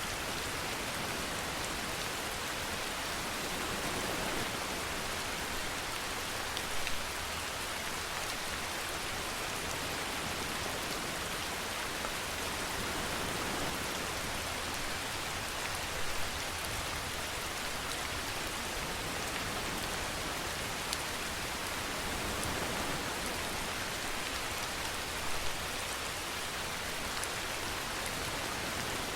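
Steady rainfall hissing evenly, with three brief louder spatters about nine seconds apart.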